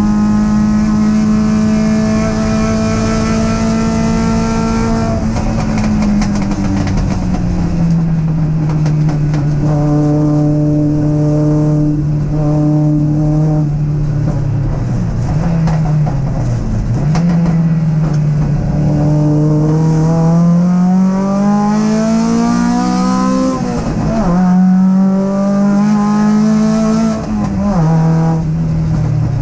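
Triumph TR7 race car's Dolomite Sprint 16-valve four-cylinder engine under racing load, heard from inside the cabin. Its note holds steady and high, drops in pitch around five seconds in, then climbs steadily as the car accelerates. Near the end, brief dips in the note mark gear changes.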